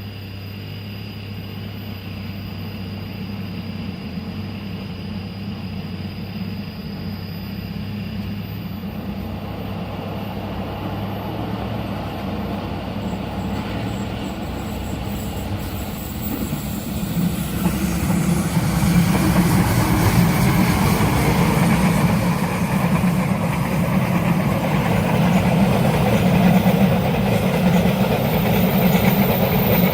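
Train approaching on the rails, its rumble growing steadily louder and then rising sharply about halfway through as it draws close.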